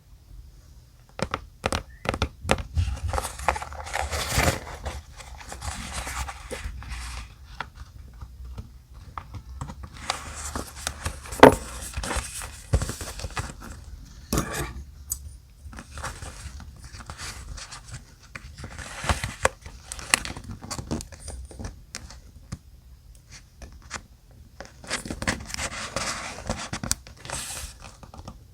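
Close-up handling of paper and journal-decorating materials: irregular rustling and crinkling of paper, broken by sharp clicks and taps, the loudest about eleven seconds in.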